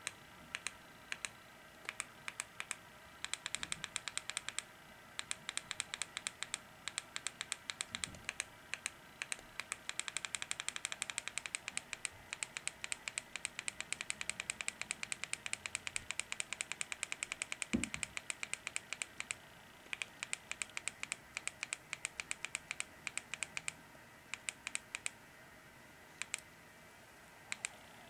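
Runs of sharp, rapid clicks, often several a second, starting and stopping like typing on a keyboard, with a single low thump about two thirds of the way through.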